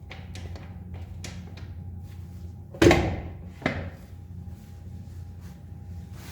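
Scattered small clicks and two knocks, the first sharp and loud and ringing briefly, the second smaller, over a steady low hum.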